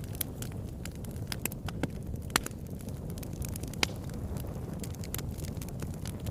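Wood fire burning in a fireplace: a steady low rumble of flames with frequent irregular crackles and pops, two sharper pops standing out a little over two seconds and near four seconds in.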